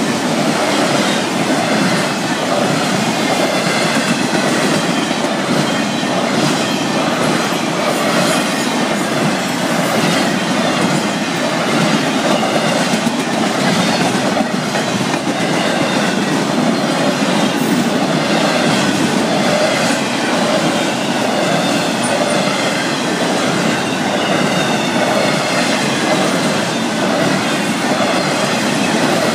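Florida East Coast Railway freight train rolling past at speed: a steady rumble and clatter of car wheels over the rails, with a faint, wavering high-pitched squeal of wheels on rail.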